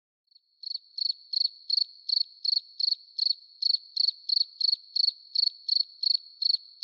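Cricket chirping steadily on one high pitch, about three chirps a second, starting about half a second in.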